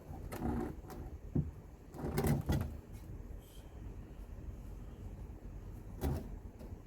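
Short metal knocks and clatters from handling tools and the long oil drain plug under the car: a few near the start, a cluster about two seconds in, and one more near the end, over a low steady rumble.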